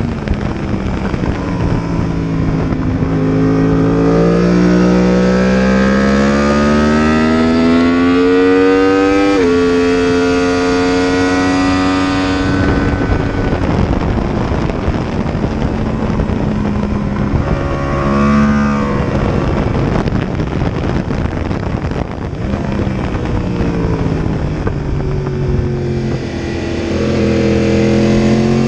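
Yamaha R1's crossplane inline-four engine heard from the rider's seat at track speed, with heavy wind rush. The revs climb for several seconds and drop sharply on an upshift about nine seconds in. The throttle then closes, a short rise and fall in revs comes around eighteen seconds, and the revs climb again near the end.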